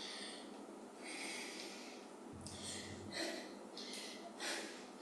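A woman breathing hard while exercising: soft, short, noisy breaths about once a second.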